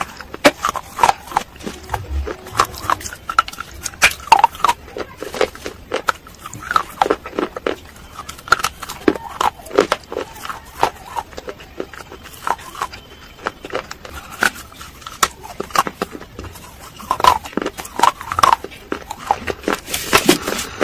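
Close-up crunching and chewing of baked clay pot (matka) pieces coated with paste, with sharp irregular cracks several times a second. There is a brief noisy rustle near the end.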